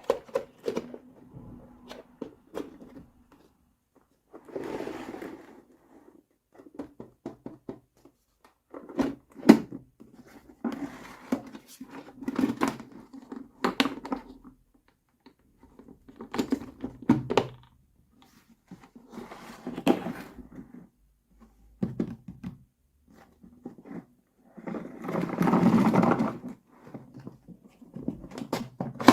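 Small plastic toy kitchen pieces being handled and set down: irregular clicks and knocks, with a longer rubbing sound near the end.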